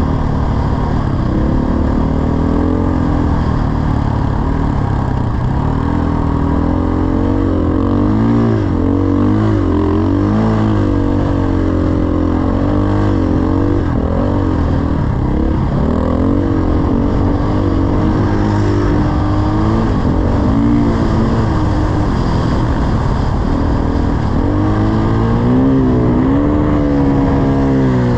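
Dirt bike engine running hard, its revs rising and falling over and over as the throttle is worked and released.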